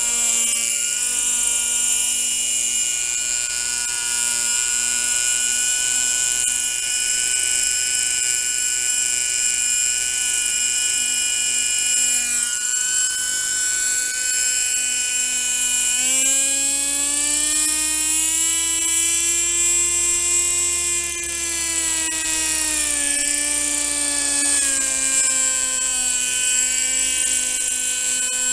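O.S. 32FH two-stroke glow engine of a Kalt radio-controlled helicopter running steadily with a high buzzing note, while the engine is being tuned. The pitch dips briefly just under halfway through, then climbs smoothly, holds a few seconds higher and settles back down.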